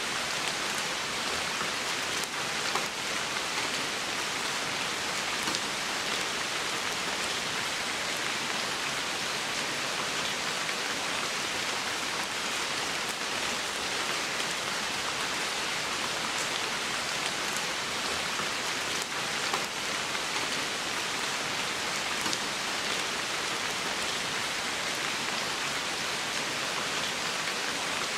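Steady rain falling on the forest floor and foliage, with an occasional single drop landing close by.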